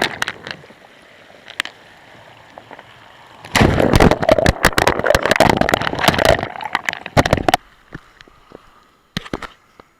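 A sea wave breaking on the shore. A loud rush comes in about three and a half seconds in, full of sharp clicks, lasts about three seconds, then fades to scattered clicks.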